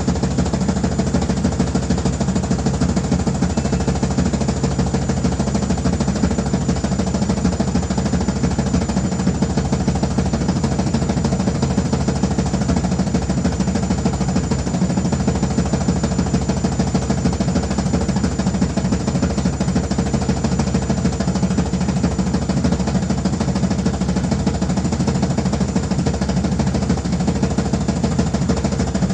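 Noisy washing machine running, a loud steady drone with a fast, even rattle and a constant hum.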